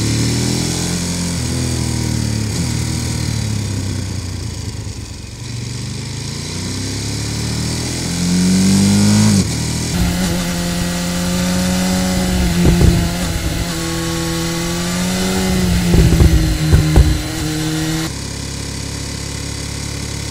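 Sport motorcycle engines on the move, recorded onboard from a Ducati Monster 1200S and a BMW S1000R, the sound cutting abruptly from one bike's engine to the other's twice. The engine note first falls off, then rises as the rider revs up about nine seconds in; after the cut a steady engine note holds, with a few brief low thumps.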